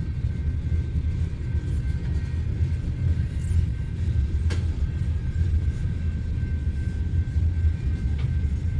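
Loaded coal train getting under way with only one locomotive at each end: a steady, heavy low rumble of diesel power and rolling cars, with a faint steady whine above it and a couple of light clicks.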